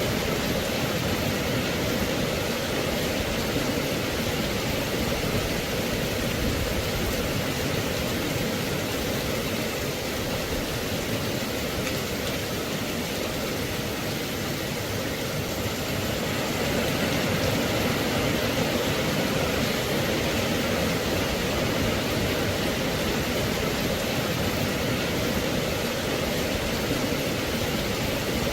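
Rain falling steadily: a dense, even hiss with no separate drops or thunder standing out.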